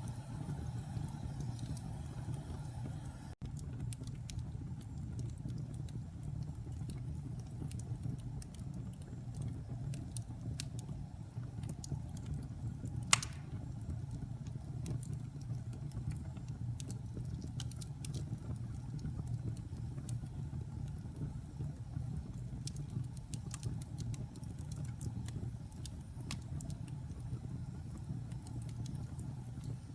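Wood fire burning in a fireplace: a steady low rumble with scattered small crackles, and one louder pop about 13 seconds in.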